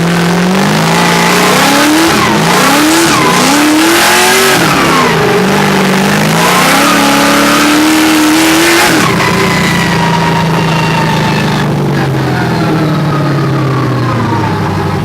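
Drift car engine revving hard, its pitch rising and falling again and again over screeching tyres. About nine seconds in it settles to a steadier, lower note that slowly drops.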